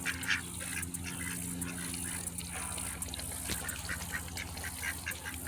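A flock of ducks quacking, a steady run of short, soft calls.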